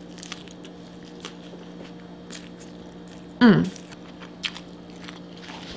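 Close-up chewing of a forkful of cheeseburger fries, with soft wet mouth clicks and squishes. A short vocal sound falling in pitch comes about three and a half seconds in, over a steady low hum.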